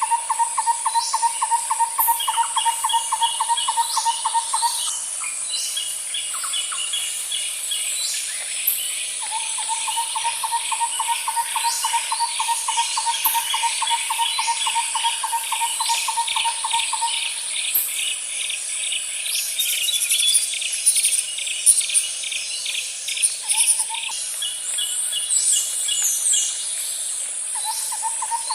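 Insects and birds: a steady, high-pitched insect drone runs throughout. Over it come rapid pulsing trills, a lower one in long runs of several seconds that stop and start again, and scattered short bird chirps.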